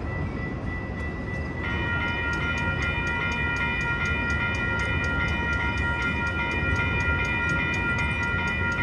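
Metra commuter train running past with a rumbling, noisy drone. About a second and a half in, a steady high-pitched ringing of several tones sets in and holds, over a fast regular ticking of about five a second.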